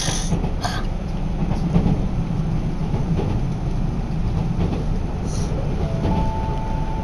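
Electric local train running along the track, heard from inside the passenger car: a steady low rumble of wheels and running gear. Two faint steady tones come in near the end.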